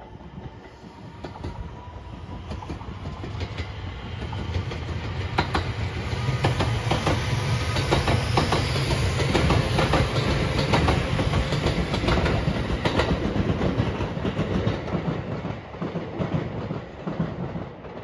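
227 series 'Urara' electric train passing close by: a rumble that builds steadily as it approaches, then the wheels clatter over the rail joints in a run of sharp clicks at the loudest part, easing off near the end as it moves away.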